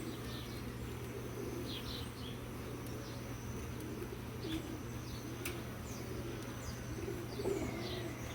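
Honeybees buzzing around an opened hive: many wavering flight tones that rise and fall as bees pass close, over a steady low hum. Faint short bird chirps sound higher above.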